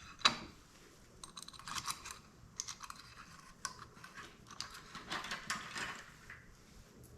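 Light metal clicks and clinks of clutch parts being handled and fitted on a motorcycle engine, in irregular clusters, with one sharp clink about a quarter second in.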